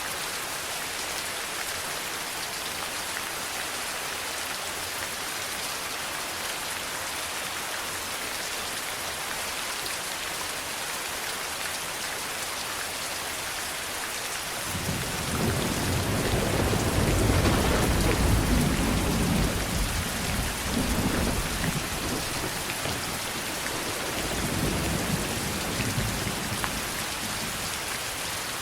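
Steady rain falling, with a long roll of thunder rising about halfway through, peaking soon after and rumbling away in several waves to the end.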